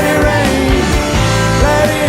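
Rock band playing live: drums, bass and guitars, with a lead line that bends and wavers in pitch over a steady beat.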